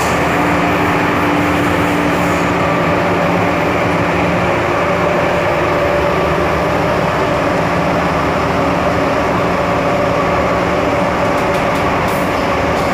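MTR M-Train electric multiple unit running along the line: a steady rumble of wheels on rail with a hum of motor tones that shift slightly about halfway through.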